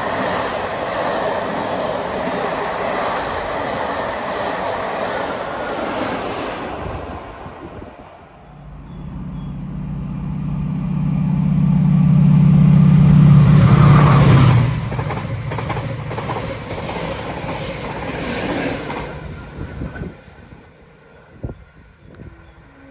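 Trains passing at speed on the line. First comes a steady rush of wheel and rail noise that fades away. Then a second train approaches with a loud low drone that builds and cuts off sharply as it passes, followed by a rapid clickety-clack of wheels over the rail joints that dies away.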